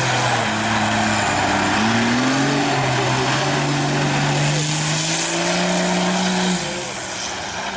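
Diesel race buggy's engine running hard under load, its pitch climbing in steps for several seconds and then dropping about six and a half seconds in.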